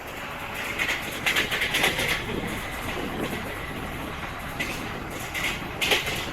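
Flying Ranee Express train running along the track: a steady rumbling rush with two spells of rapid wheel clatter, about a second in and again near the end.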